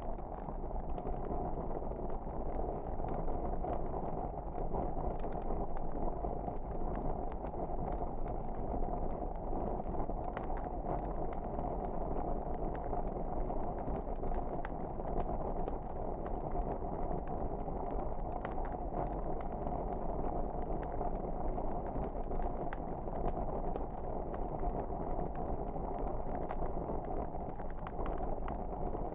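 Wood fire crackling: a steady hiss of burning with many small irregular pops and snaps.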